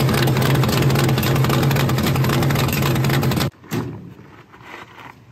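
Rat rod's twin-carburetted gasoline engine idling loudly through open vertical stack pipes, a steady low drone that cuts off suddenly about three and a half seconds in.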